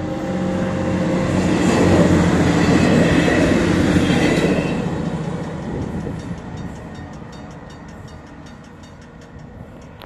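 MAN two-car diesel railcar passing close by, its engine drone and wheel noise rising to a peak about two to four seconds in, then fading away as the train goes off down the line.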